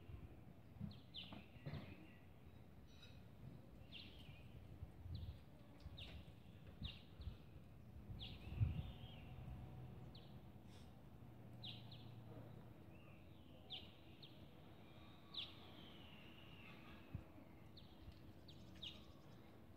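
Faint outdoor ambience with a small bird chirping over and over: short, sharp chirps, some falling in pitch, every second or so. One low thump about nine seconds in.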